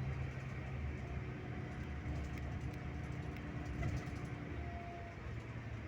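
Scania K360IB bus running steadily on the road, a low engine drone over road noise, with a few faint clicks and rattles in the middle.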